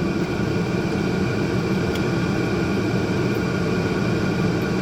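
Steady mechanical hum and drone, even throughout, with several constant tones over a low rumble.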